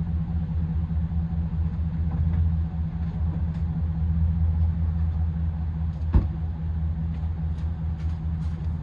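Pickup truck engine running with a steady low rumble, and a single sharp knock about six seconds in.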